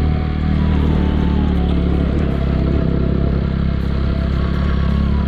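Motorcycle engine running steadily as the bike is ridden at an even speed, its engine note holding one pitch throughout.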